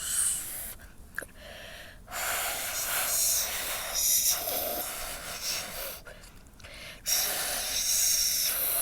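A person imitating a storm with the mouth: breathy rushing hiss in three stretches, with short pauses about a second in and about six seconds in.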